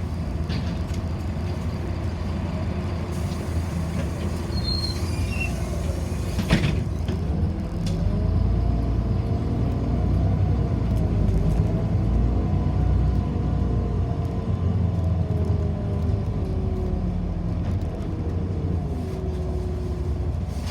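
City bus heard from inside the passenger cabin: steady low running rumble, a sharp knock about six seconds in, then the bus gets under way with a heavier rumble and a drive whine that rises and falls in pitch as it speeds up and eases off.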